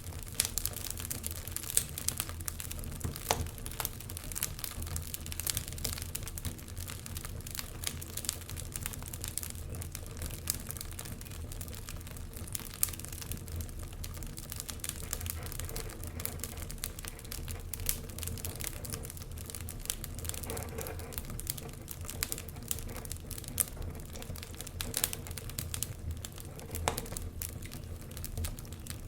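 Wood fire burning in a fireplace: a steady low rumble of flames with irregular crackles and pops from the logs.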